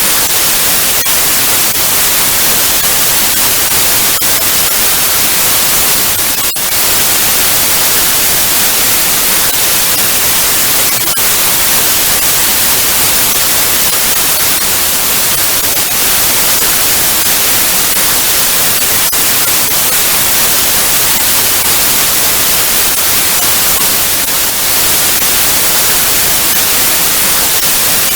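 Loud, steady television static: an even hiss, strongest in the treble, with faint crackling ticks and a brief dip about six seconds in.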